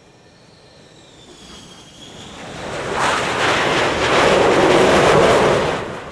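Jet aircraft passing: a faint turbine whine that slides down in pitch, then a rush of jet noise that swells to a loud peak for a few seconds and fades away near the end.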